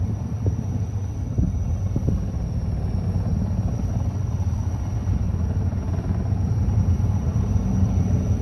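Firefighting helicopter's rotor and engine running, heard as a steady low rumble with a thin high whine held over it.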